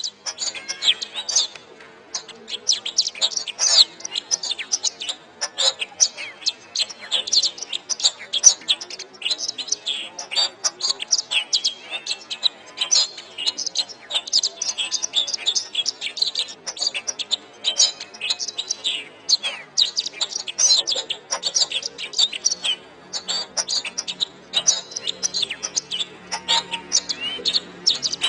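Canary singing a long, rapid, unbroken song of chirps and trills. A faint low hum joins in near the end.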